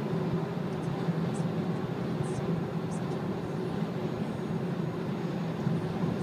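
Steady road and wind noise inside a Nissan Leaf electric car cruising at highway speed, about 75 mph, with no engine sound, only a low, even rumble of tyres and airflow.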